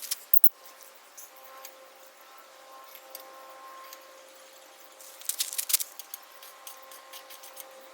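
Faint clicking and scraping as a plastic turbo whistler is pushed into a car's exhaust tip, with one sharp click just after the start and a cluster of clicks about five to six seconds in.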